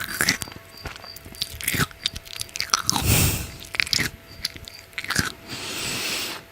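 Crisp biting and crunchy chewing of food close to the microphone: a run of sharp cracks, with a longer crunching stretch about three seconds in and another near the end.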